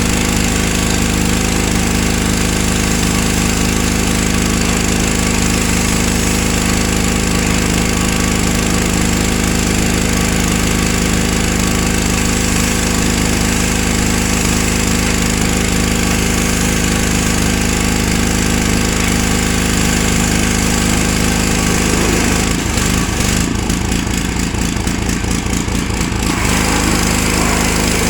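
Gas-engine pressure washer running steadily. For about four seconds near the end the sound turns into a rapid pulsing, then goes back to steady running.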